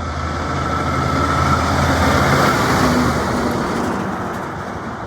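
A truck driving past: engine and tyre noise swell to a peak about two and a half seconds in, then fade as it goes by.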